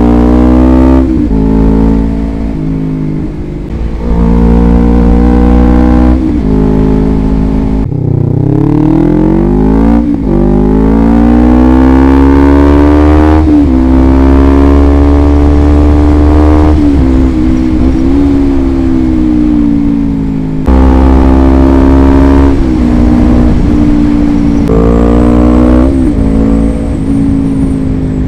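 Motorcycle engine through a DX Generation Sphere Oval aftermarket exhaust, under way. The revs climb and drop back in steps several times, as at gear changes, then rise in one long pull and hold steady. More up-and-down shifts come near the end.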